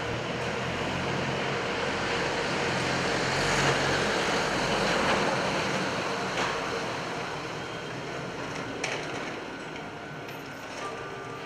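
Train rumble on the line, swelling to its loudest about four to five seconds in and then easing off, over a faint steady hum.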